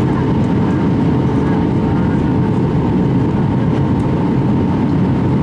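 Airbus A319 airliner's steady jet engine and airflow noise, a dense low rush with a faint steady hum running through it.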